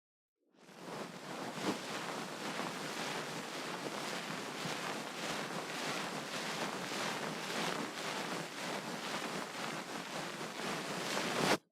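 Ear pick scraping and rubbing in rapid, fine strokes, a continuous scratchy rustle. It starts about half a second in and cuts off abruptly near the end.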